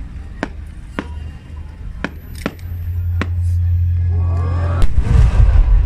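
Large aerial fireworks shells going off: scattered sharp cracks, a deep rumble building, then a heavy boom near the end that is the loudest sound. Voices rise around the boom.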